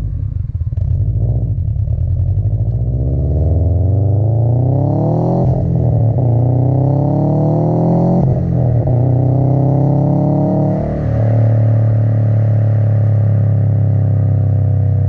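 Subaru WRX STI's turbocharged flat-four, breathing through an Invidia R400 cat-back exhaust and a Cobb short-ram intake, accelerating hard through the gears. The pitch climbs, drops at upshifts about five and eight seconds in, then settles into a steady drone.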